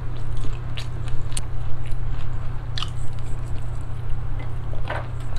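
Close-miked chewing of shell-on mala shrimp: wet mouth smacks with scattered sharp clicks and small crunches, over a steady low hum.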